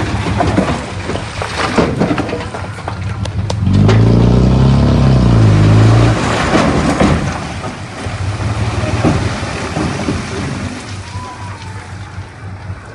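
Heavy diesel earthmoving machine's engine working, louder and shifting in pitch under load for about two seconds a few seconds in, with stones knocking and clattering.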